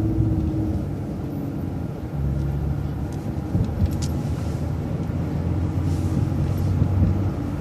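City transit bus engine running steadily as the bus drives along the road, its low drone changing a little about two seconds in.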